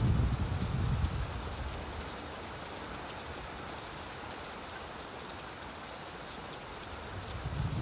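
Steady rain on a surface, an even hiss. A low rumble of thunder fades out over the first second or two, and another begins near the end.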